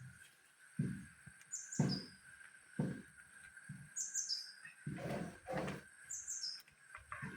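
A bird chirping in short clusters of quick falling calls, three times, over a faint steady hum, with several dull low thumps in between.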